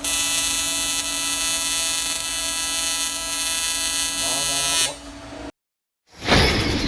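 AC TIG welding arc buzzing steadily on aluminium, a harsh even buzz that stops after about five seconds. After a short gap there is a sudden loud rush with a faint falling whistle.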